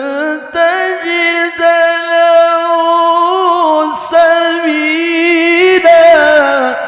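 A single voice singing long, held notes with wavering, ornamented melodic turns, stopping near the end.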